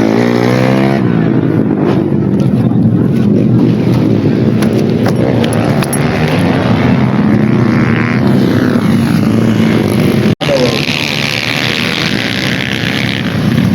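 Dirt bike engines running and revving on a dirt track, one bike's pitch sweeping as it goes by near the start. The sound cuts out for an instant about ten seconds in.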